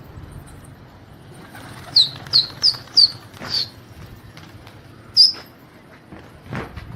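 Small bird chirping: five quick, high, short downward chirps, then a single chirp about two seconds later. A brief rustle near the end.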